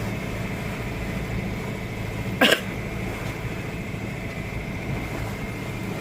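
Sailboat's engine running with a steady low drone while the boat pitches in rough, choppy seas. About two and a half seconds in comes one brief, sharp noise.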